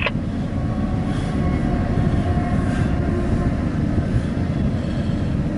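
Intermodal freight train rolling past: a steady low rumble of wheels on rail, with a faint steady whine above it.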